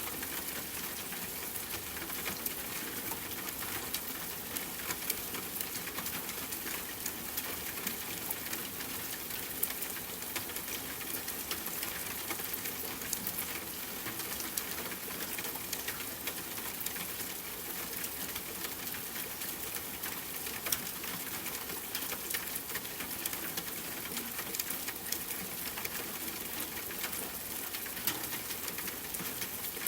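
Steady rainfall hiss with a wood fire crackling over it, small sharp pops and snaps coming several times a second.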